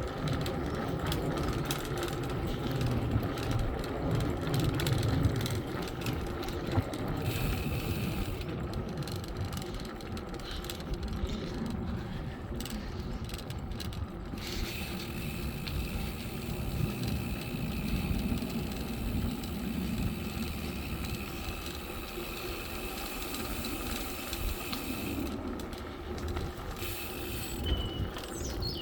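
Bicycle being ridden along a path: steady tyre and drivetrain noise, with wind rumbling on the phone's microphone. A thin high whine cuts in and out several times.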